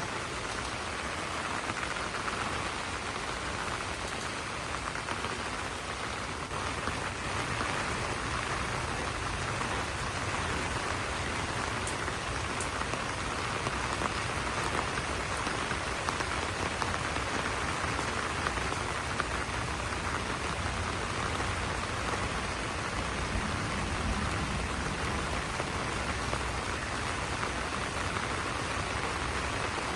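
Steady rain falling on banana leaves: an even hiss of many drops striking the broad leaves, unchanging in level.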